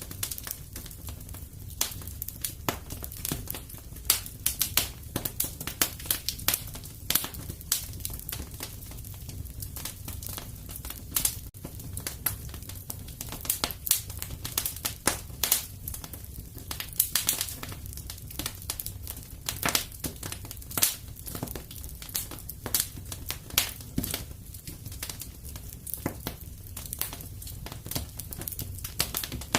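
Wood fire in a fireplace crackling: irregular sharp pops and snaps, a few a second and varying in strength, over a steady low rumble of the burning.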